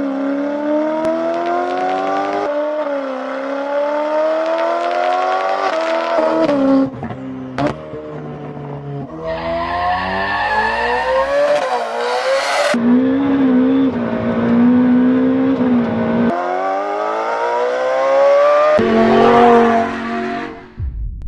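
Ferrari 488 Pista's twin-turbo V8 through a Kline Innovation exhaust, accelerating hard. The engine note climbs in pitch over a few seconds and then drops sharply at each upshift, several times over.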